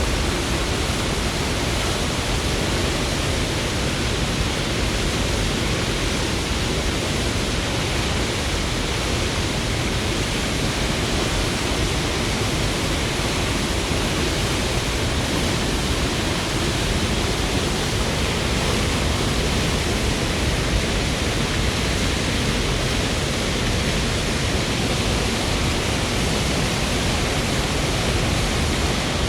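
Water pouring over a high dam, a steady, unbroken rush of falling water.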